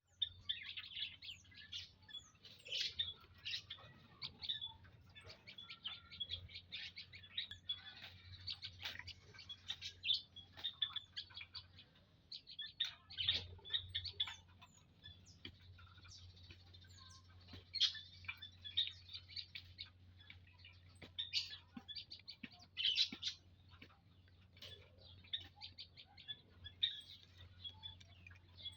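A family of prenjak lumut, small prinia-type songbirds, chirping and twittering in quick, busy calls throughout, over a faint steady low hum.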